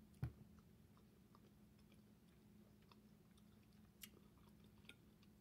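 Faint chewing of a mouthful of lobster meat, with small wet mouth clicks scattered through it. A single low thump sounds about a quarter second in.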